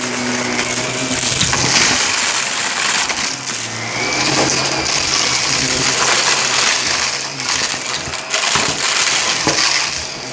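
Shark vacuum cleaner running over carpet, its motor humming under a loud airflow hiss, with debris crackling and clinking as it is sucked up.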